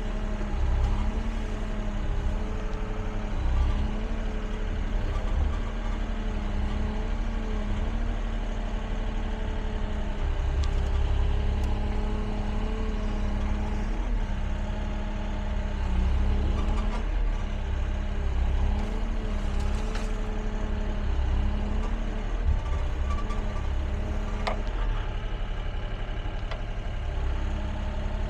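Excavator's diesel engine running steadily under work, its pitch dipping briefly and recovering again and again, with a few short sharp cracks along the way.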